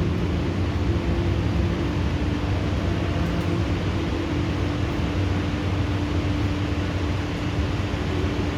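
Steady downpour of thunderstorm rain, an even hiss with a constant low hum underneath.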